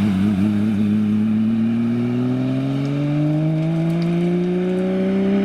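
Porsche rally car's flat-six engine pulling hard under load, its pitch climbing slowly and steadily as the car accelerates.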